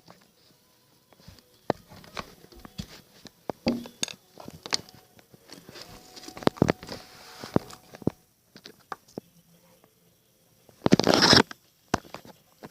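Scattered clicks and knocks of a newly replaced house window being handled and unlatched, with a short scraping rush about eleven seconds in as it slides open.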